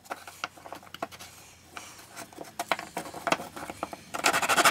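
Scattered light clicks and knocks of things being handled, then near the end a loud, rapidly pulsing noise starts abruptly.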